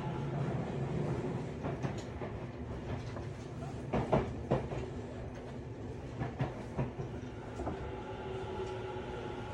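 Running noise inside a Tobu 50090-series electric train's motor car, with the wheels knocking sharply over rail joints or points, in a cluster about four seconds in and again near seven seconds. From about eight seconds in a steady whine of several tones from the traction motor drive sets in.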